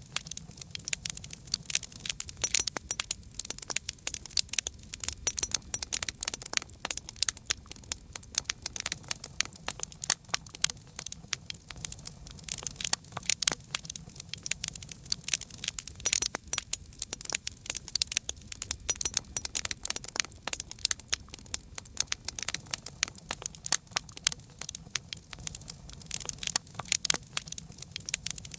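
Campfire crackling: a dense, irregular run of sharp pops and snaps from the burning wood over a low, steady background rumble.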